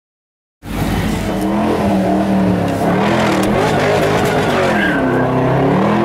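Shelby GT500 KR's supercharged V8 engine running loud, its revs rising and falling over and over. The sound cuts in suddenly about half a second in, after silence.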